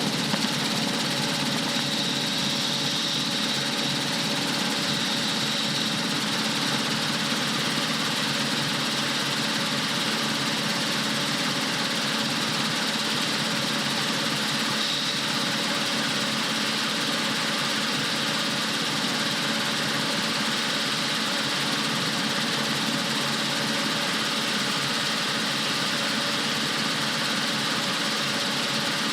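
Rotorway Exec 162F helicopter running steadily, its engine and rotor making a constant noise with no rise or fall in power.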